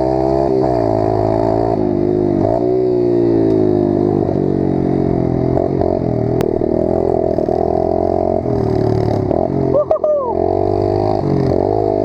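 Small dirt bike engine running under a rider, its pitch rising and falling with the throttle. It dips for a moment near the end, then picks up again.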